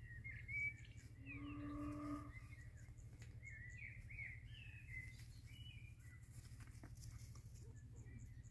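Birds chirping in short, quick calls over a steady low hum. About a second in, a flat pitched tone is held for about a second.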